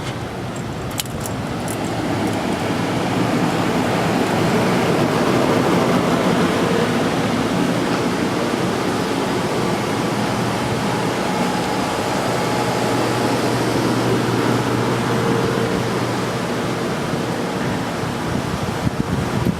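Car running on the road: steady engine and tyre noise that builds over the first few seconds, with a couple of light clicks at the start.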